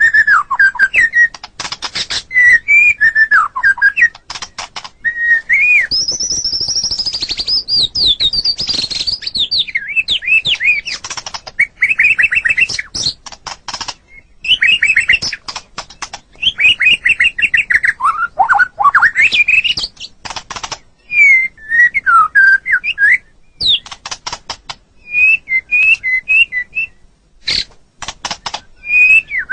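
White-rumped shama singing: loud whistled phrases that glide up and down, mixed with dense runs of sharp clicking notes, with brief pauses between bouts.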